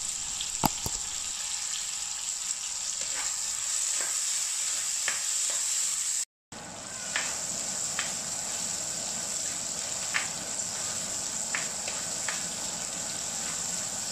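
Small onions, garlic, curry leaves and green chillies sizzling steadily in hot oil in a clay pot, with scattered light clicks and scrapes of a wooden spatula stirring them. The sound drops out for a moment about halfway.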